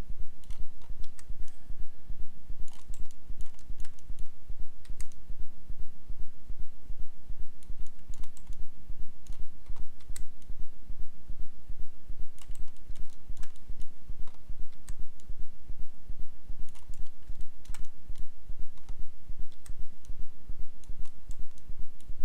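Computer keyboard keys and mouse buttons clicking at irregular intervals, over a steady low electrical hum that pulses evenly.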